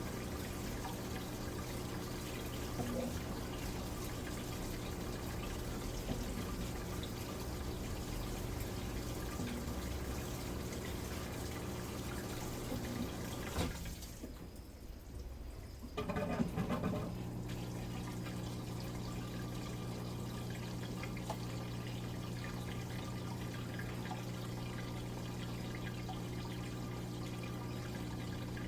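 Midea Wave-Agitator top-load washing machine running mid-cycle: water moving in the tub over a steady machine hum. Halfway through, the sound cuts out for about two seconds, then comes back with a short louder splash or knock.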